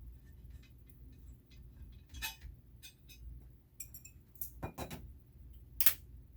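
Irregular small clicks and taps of hard objects being handled, over a low steady hum. The loudest knocks come about two seconds in, a close pair near four and a half seconds, and one near the end.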